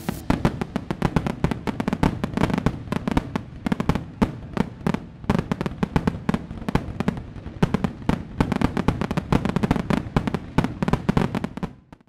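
Fireworks crackling and popping in rapid, irregular strings of sharp reports, dying away near the end.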